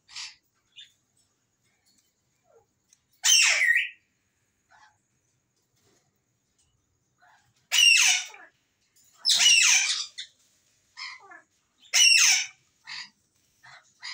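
Grey parrot squawking: four loud, harsh calls that sweep down in pitch, about 3, 8, 9 and 12 seconds in, with shorter, softer squeaks and clicks between them.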